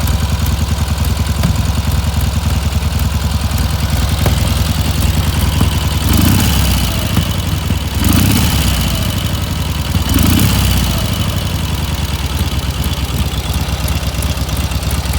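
Kiev K-750 motorcycle's side-valve flat-twin engine idling steadily. It is revved three times in quick succession midway, each rev rising briefly and falling back to idle.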